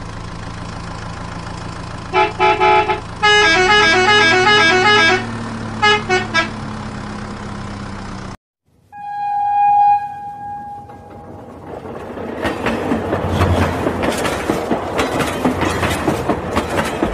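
Electronic toy horn and tune beeps in three short runs over a steady hum, then a single held horn toot, then a battery-powered toy train rattling and clattering along plastic track.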